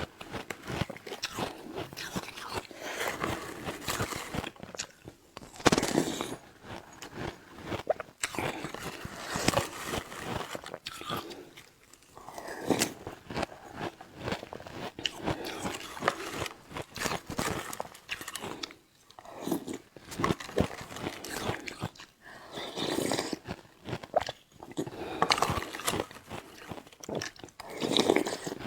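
Close-up biting, crunching and chewing of shaved ice: dense, crackly crunches in irregular bursts with short pauses between mouthfuls.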